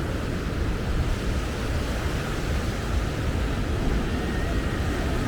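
Steady rush of surf breaking on the beach, mixed with wind on the microphone.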